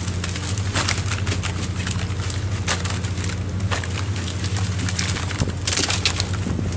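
Steady low hum of the squid fishing boat's machinery, with irregular clatter and knocks on top and a short, denser rush of noise near the end.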